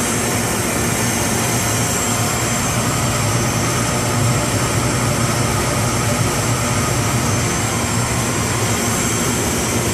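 Steady hum and rushing air of boiler-room equipment running: the freshly fired Primera gas boilers' combustion fans and burners, together with fresh-air makeup ventilation.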